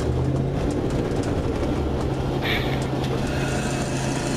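A vehicle engine runs with a steady low drone, heard from inside a moving police car. About halfway through comes a brief high-pitched sound.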